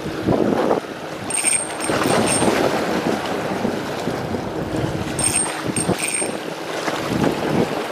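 Strong wind buffeting the microphone over the rush of sea waves, rising and falling in gusts. A faint high ringing pattern comes back about every three to four seconds.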